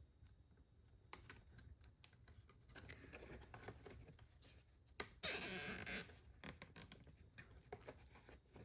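A cable tie being pulled tight around wiring in an RC car: small handling clicks, then a ratcheting zip about a second long just past the middle.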